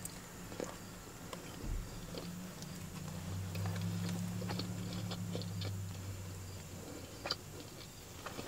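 A person chewing a burger close to the microphone: scattered soft mouth clicks and smacks over a faint, steady low hum.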